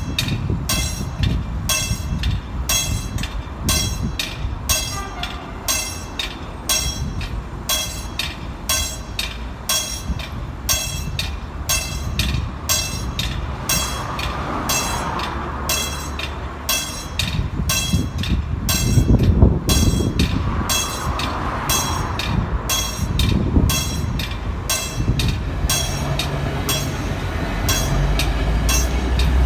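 Passenger train pulling out of a station: its wheels click over the rail joints in a steady, even rhythm of about two to three clicks a second over a low rumble. A steady low engine hum grows near the end.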